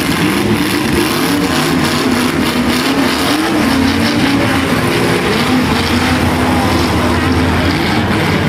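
Engines of several destruction derby cars running and revving unevenly, their pitch rising and falling without a break.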